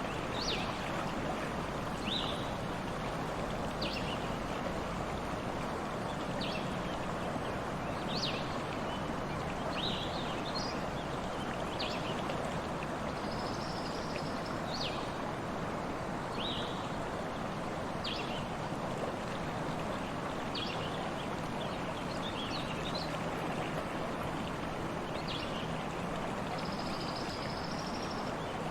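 Stream flowing steadily, with a bird giving short high chirps that fall in pitch about every one to two seconds. Twice a longer, steady high note sounds for about a second.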